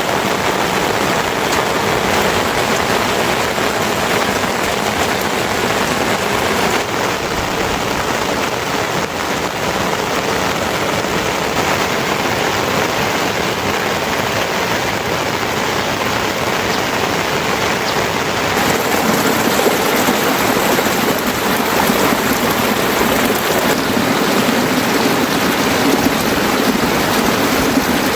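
Steady rain falling, an even hiss that grows slightly louder about two-thirds of the way through.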